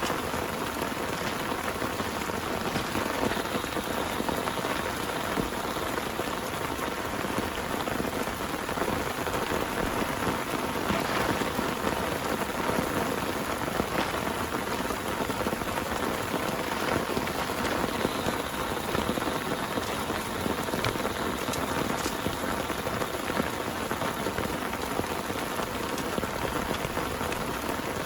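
Heavy rain falling steadily, with a dense mass of individual drop hits.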